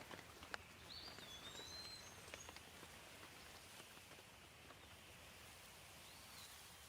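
Faint gentle rain: a soft steady patter with scattered single drips, mostly in the first three seconds. Two high whistled calls sound above it, one about a second in and a shorter one near the end.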